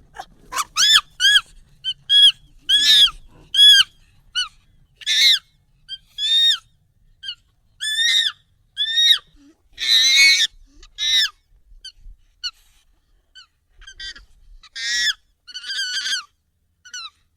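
Monkey calls, sped up and raised in pitch: an uneven run of about twenty short, high cries, each rising then falling in pitch, with brief gaps between them.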